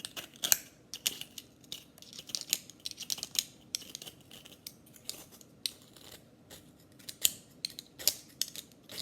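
Metal fork scraping frozen yogurt off a plate: a run of short, sharp, irregular scratching strokes.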